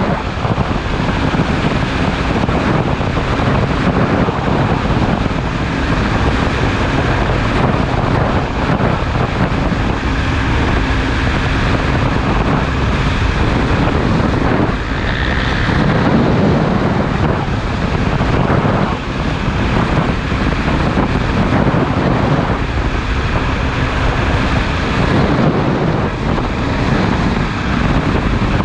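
Heavy wind buffeting the microphone at riding speed, with a motorcycle engine running underneath.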